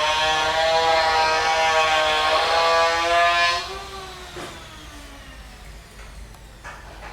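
Hair dryer running with a steady whine, switched off about three and a half seconds in, its motor winding down in falling pitch.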